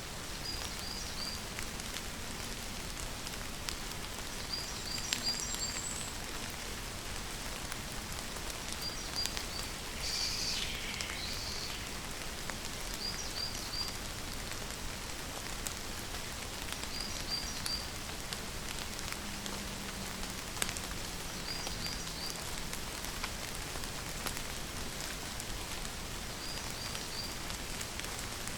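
Steady rain falling. A bird repeats a short call of three or four quick high notes about every four seconds.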